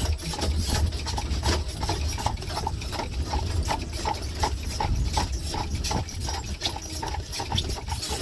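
Hooves of a horse pulling a buggy clip-clopping steadily on the road, roughly two beats a second, over the low rumble of the buggy rolling along.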